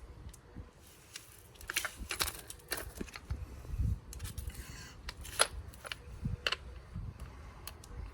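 Scattered light clicks and knocks of metal tools and motorcycle parts being handled during clutch work, irregularly spaced.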